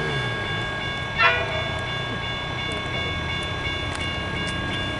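Train running on the line with a steady low rumble and a whine of several steady high tones. About a second in there is one brief, loud, wavering high squeal.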